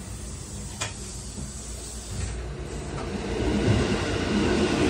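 Tokyu 8500-series electric train running on the track, heard from inside the cab: steady rail and running noise with a sharp click about a second in. The noise grows louder from about three seconds in, with a faint high tone over it.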